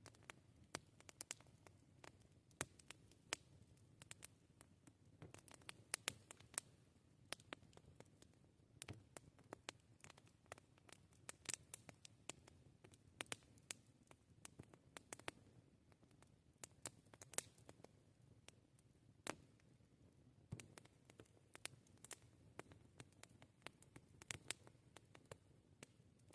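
Wood campfire crackling: irregular sharp pops and snaps, several a second, some much louder than others, over a faint low rumble of the burning fire.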